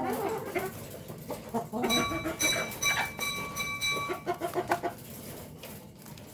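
Domestic village chickens (ayam kampung) clucking in short, repeated calls. For about two seconds in the middle, a steady high-pitched tone sounds over the clucking.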